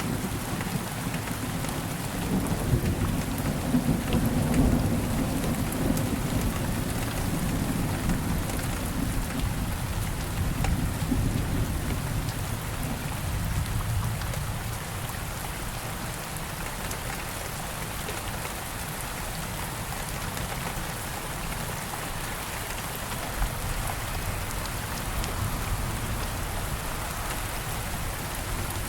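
Steady rain falling, with a low rolling rumble of thunder through the first half that fades out by the middle.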